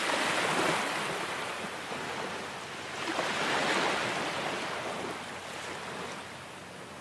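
Ocean surf washing on a shore: two swells of wave noise, one at the start and another about three seconds later, easing off toward the end.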